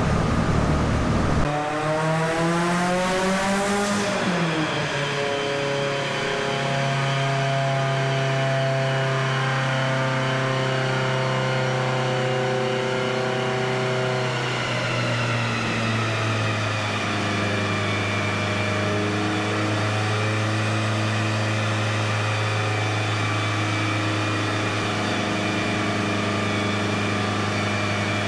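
Turbocharged 4G63 four-cylinder of a Mitsubishi Lancer Evolution VIII running on a chassis dyno. After a rush of noise in the first second and a half, the engine revs up over a couple of seconds. It is then held at a steady engine speed and settles to a slightly lower steady speed about halfway through.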